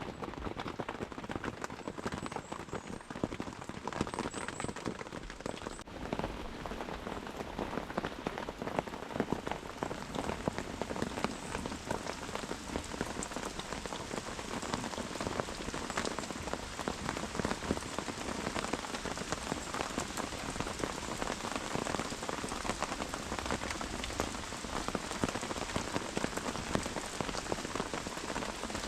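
Steady rain falling, with many individual drops striking nearby surfaces.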